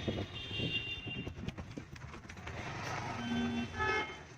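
Street traffic with vehicle horns sounding: a high-pitched horn near the start and a lower horn about three seconds in, over scattered knocks and clatter.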